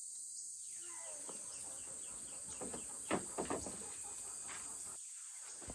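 Chickens clucking faintly, with small birds chirping and a few soft knocks about three seconds in.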